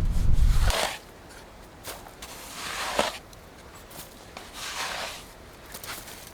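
Slow footsteps, a step about every two seconds. A low rumble in the first second stops suddenly.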